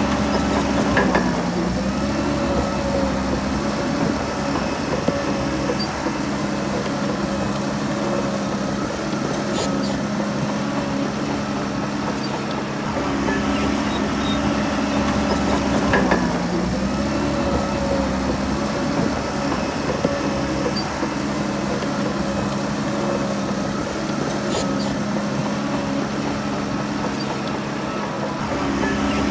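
Bulldozer's diesel engine running steadily. Its pitch dips briefly about a second in and again about halfway through, then recovers. There are a few sharp metallic clanks near the middle and near the end.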